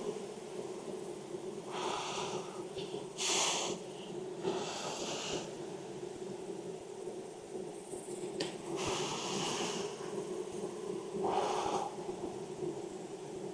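Honeybee colony humming steadily from an open hive, with several short breathy hisses over it and one sharp click about eight seconds in.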